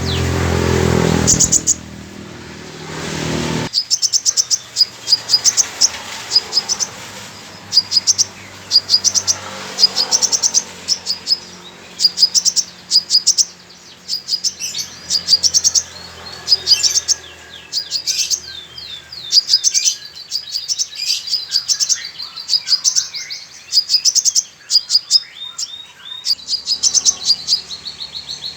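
A sunbird (Indonesian 'kolibri dacok') singing in rapid-fire bursts of high chirps and fast trills, its song filled with imitated calls of a female 'kolibri manggar'. For the first few seconds a loud noisy rush with a low hum lies under the song, then stops abruptly.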